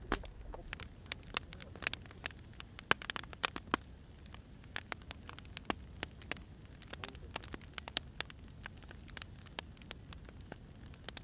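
Wood fire burning: irregular sharp pops and snaps of firewood over a low steady rumble, busiest in the first few seconds.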